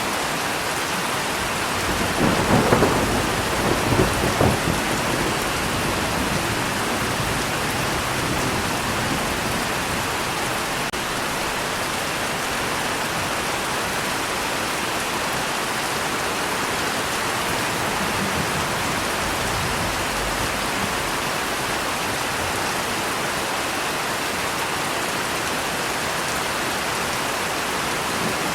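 Steady rain falling, with a roll of thunder rumbling in about two seconds in and fading out over the next few seconds.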